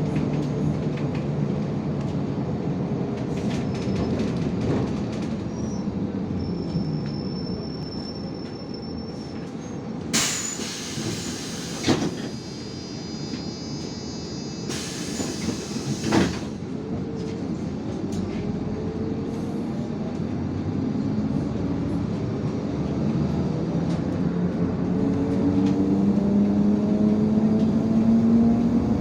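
IVECO Crossway 13M LE city bus heard from inside: the diesel engine drone falls in pitch as the bus slows. About ten and fifteen seconds in come two loud air hisses with thumps, the pneumatic doors working at a stop. From the middle on, the engine rises steadily in pitch as the bus pulls away.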